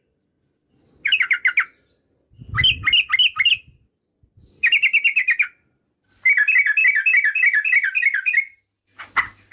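Yellow-vented bulbul (trucukan) singing: short bursts of rapid, bubbling chirps repeated five times with brief pauses between, the longest burst about two seconds long.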